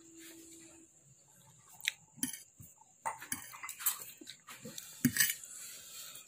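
Eating utensil clinking and scraping against a dish while a mouthful of instant noodles is picked up: a few sharp clicks about two seconds in, then busier clinking and rustling from about three seconds on.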